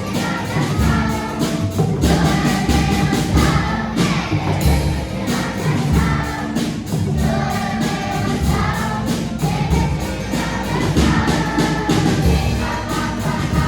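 A choir singing a song over instrumental backing with a steady beat.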